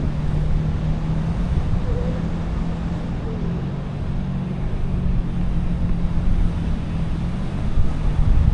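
Steady wind rushing over the microphone of a paraglider in flight, with a low steady hum underneath.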